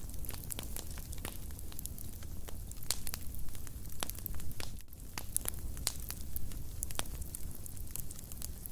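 Wood fire burning in a fireplace, crackling with irregular sharp pops and snaps over a low rumble of flame.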